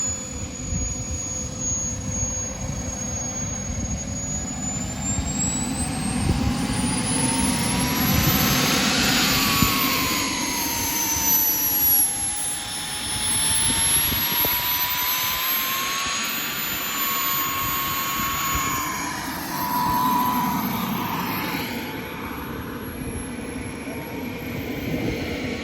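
Turbine engine of a radio-controlled jet aircraft whining in flight. Its pitch glides up and down as the jet passes and the throttle changes, and it is loudest about nine to fourteen seconds in, over a low rumbling noise.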